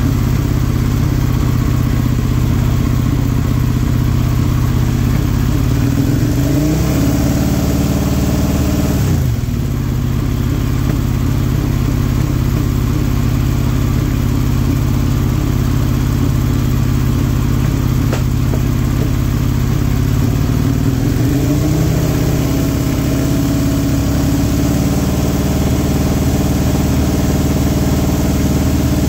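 Suzuki SV-series 90-degree V-twin engine running, revved up about seven seconds in and dropping back sharply at about nine and a half seconds, then revved up again a little after twenty seconds and held there. The engine is held at about 5,000 RPM for a stator AC output test.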